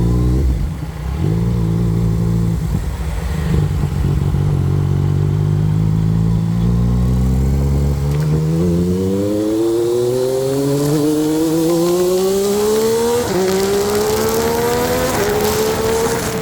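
Yamaha MT-09 inline-three engine accelerating hard. The note rises slowly at first, then climbs steadily in pitch, with a brief dip at each upshift a few times through the gears.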